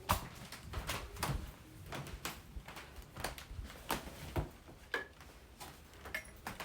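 Irregular light knocks and clicks, about one or two a second, from things being handled and moved in a small room.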